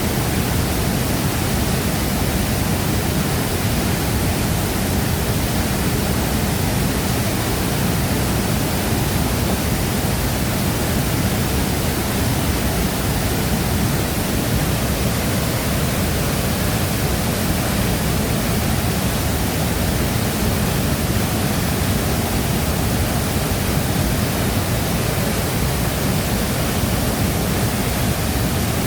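Large waterfall pouring steadily: a constant, even rush of falling water, heaviest in the low end, with no change throughout.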